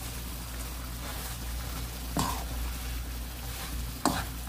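Dried anchovies sizzling and frying in a pan of bubbling soy sauce and gochujang sauce while being stirred with a spatula, with two sharp knocks of the spatula against the pan, about two seconds in and near the end.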